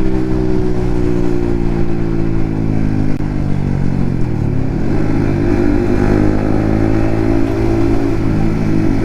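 Yamaha MT-15's single-cylinder engine through an aftermarket Akrapovic exhaust, riding in traffic: the engine note sinks as the revs ease off over the first few seconds, then climbs again about five seconds in and holds steady.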